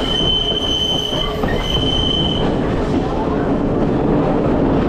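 Passenger train running on the rails, steady rumble with a high, steady wheel squeal through the first half, broken briefly about a second and a half in.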